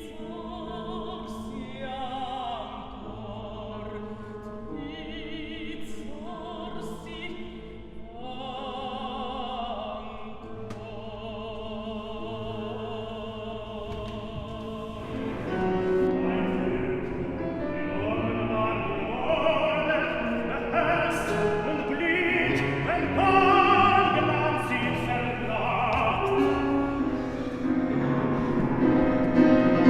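Operatic singing with wide vibrato over a musical accompaniment. It becomes louder and fuller about halfway through.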